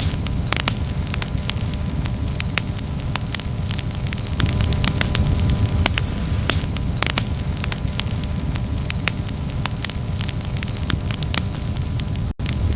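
Campfire crackling: frequent sharp pops and snaps over a steady low rumble, with a split-second gap near the end.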